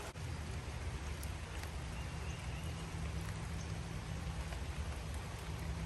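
Steady rain falling on a trout creek, mixed with the rush of the stream's flowing water: an even, unbroken hiss with a low steady rumble underneath.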